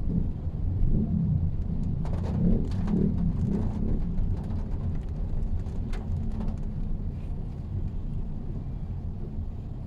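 Mitsubishi Xpander driving in the rain: a steady low rumble of engine and road noise, with a cluster of sharp ticks and knocks about two to six and a half seconds in.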